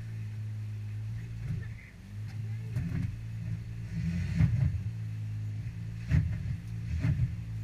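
ATV engine running at low, fairly steady revs, dipping briefly about two seconds in and picking up again, with a few sharp knocks and thumps in the second half.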